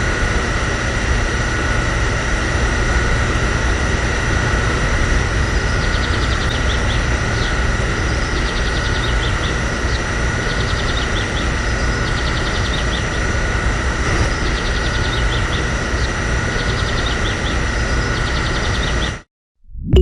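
A small motor running steadily with a constant whine and a faint rapid ticking, stopping abruptly near the end.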